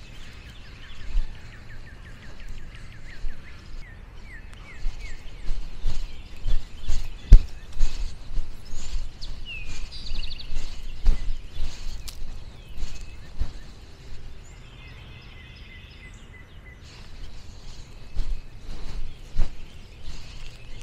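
Birds calling: a run of quick repeated chirps in the first few seconds, a curving call about ten seconds in, and another run of chirps later. Beneath them are a low rumble and scattered thumps and clicks, the loudest about seven seconds in.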